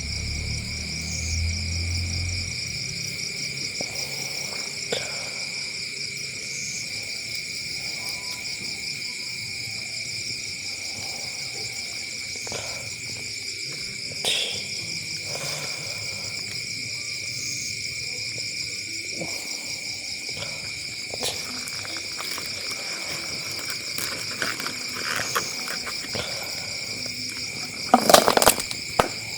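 Night chorus of crickets, several steady, pulsing trills at different pitches, with scattered small clicks and a short loud crackling clatter near the end.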